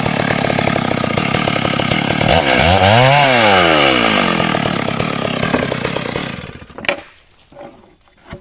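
Stihl chainsaw at full throttle cutting heartwood into frame stock. About a third of the way in its pitch rises and falls back once, and about three quarters in it dies away, followed by a single sharp knock.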